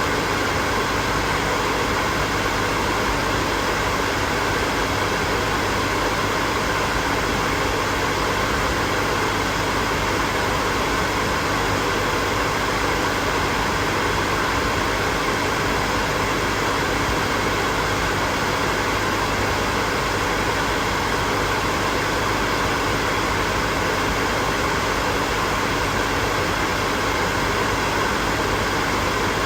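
Hair dryer running steadily: a continuous rush of blown air with a faint steady motor hum underneath.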